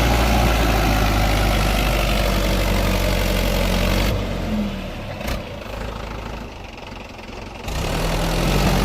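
Mahindra 585 XP Plus tractor's diesel engine running hard under heavy load while the tractor is stuck in the soil. About four seconds in it drops back to a low idle, with one sharp click about a second later, and it picks up again near the end.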